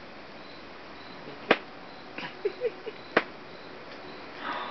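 An elastic waistband being pulled and snapped: three sharp snaps about a second and a half apart.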